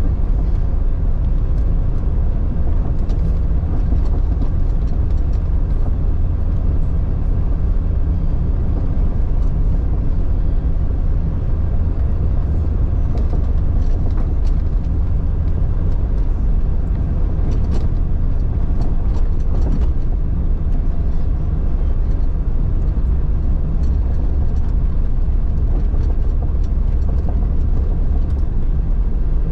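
1999 Jeep Cherokee XJ driving off-road: a steady low engine and drivetrain rumble, with scattered faint knocks and clicks.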